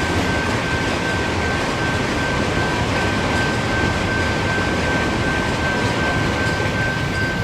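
Norfolk Southern freight train rolling, a steady rumbling noise with one thin, high, steady tone ringing over it.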